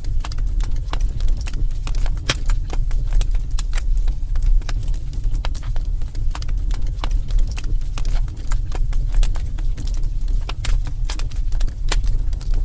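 Wood fire in a fireplace crackling and popping irregularly over a steady low rumble.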